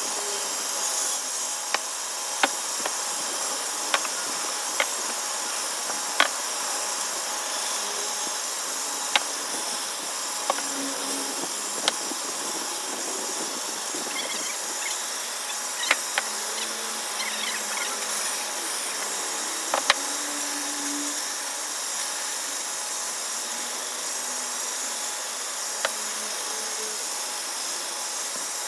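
A power tool running steadily while wood is worked, with sharp knocks every few seconds at irregular intervals.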